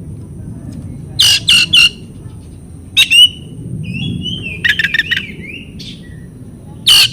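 Oriental magpie-robin (kacer) giving loud, harsh calls in quick groups of two or three, with a short run of fast notes in the middle. A steady low hum runs underneath.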